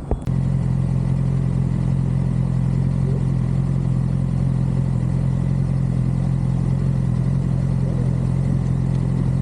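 Suzuki GSX-R600 inline-four motorcycle engine running at a steady speed, its pitch holding level; it cuts in abruptly just after the start.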